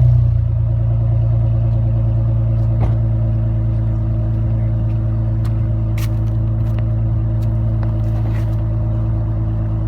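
2000 Honda Accord 3.0 V6 idling steadily through a DNA cat-back exhaust with rolled tips, a deep even drone with no revving.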